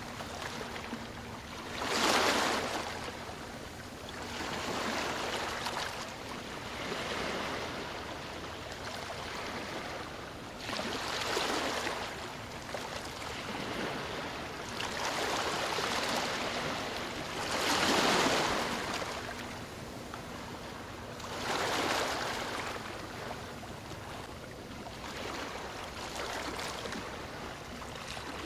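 Ocean waves breaking and washing up the shore, a steady hiss of surf that swells into a louder crash every few seconds, the biggest at about 2 and 18 seconds in.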